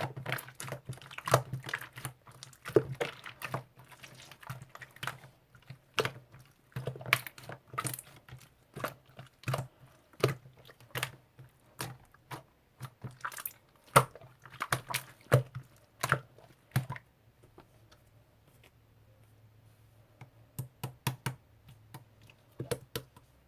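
Keys being typed on a keyboard: irregular sharp clicks, two or three a second, stopping about three quarters of the way through, then a short run of a few more keystrokes near the end.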